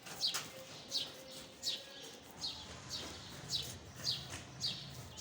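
A bird calling over and over: short, high chirps that fall in pitch, repeated about every half second.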